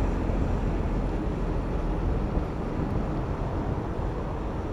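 Steady low rumble of wind buffeting the microphone while riding a bicycle, with traffic noise underneath.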